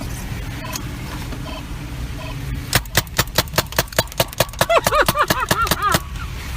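In-car speed-camera (radar) detector alert over engine and road noise: faint spaced beeps, then about three seconds in a rapid run of sharp beeps with warbling chirps, lasting about three seconds, warning of a speed camera ahead.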